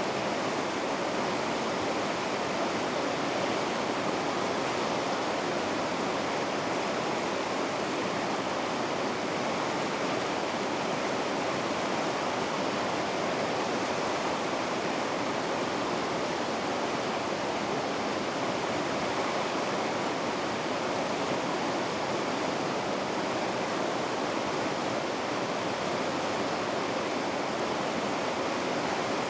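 River rapids rushing steadily: an even, unbroken roar of white water.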